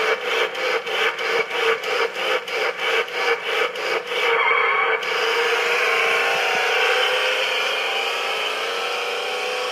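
Battery-powered toy monster truck's electric motor and gearbox grinding, pulsing about four times a second for the first few seconds, then a steady whir from about five seconds in that slowly drops in pitch. The truck is struggling on carpet, where it barely moves and keeps stalling.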